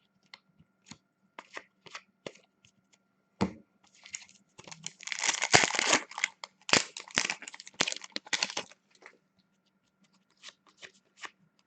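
A pack of hockey cards being opened and handled: light clicks and rustles, a longer ripping and crinkling of the pack wrapper about halfway through, then a quick run of sharp flicks as the cards are thumbed through.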